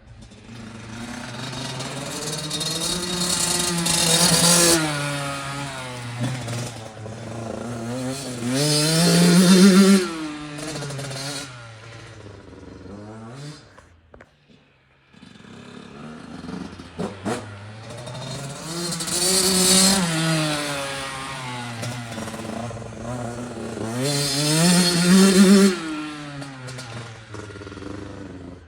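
Yamaha YZ85 two-stroke dirt bike engine revving up and down as the bike rides around, its pitch climbing and dropping in waves. It is loudest about four, ten, twenty and twenty-five seconds in, with a brief lull near the middle.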